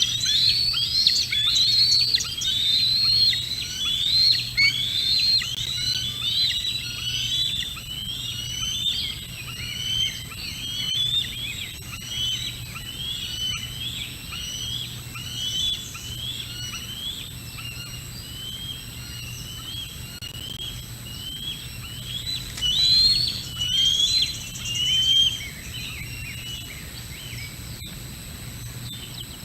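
A bird calling in a long series of short, high chirps, about two a second. The chirps are loudest at first, fade through the middle, then come back briefly louder near the end, over a low steady hum.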